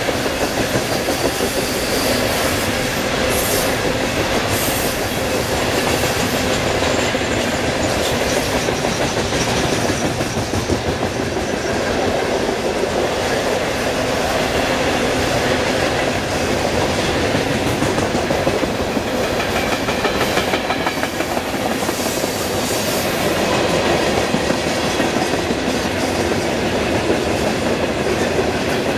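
Freight train's boxcars and tank cars rolling past at speed: a steady rumble and rattle of steel wheels on the rails, with rapid clicking as the wheels cross the joints.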